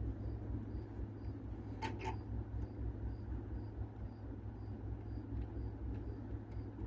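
Steady low hum with a soft tick about twice a second, and two light metal clicks close together about two seconds in, from a wrench working the small terminal nut on a starter motor.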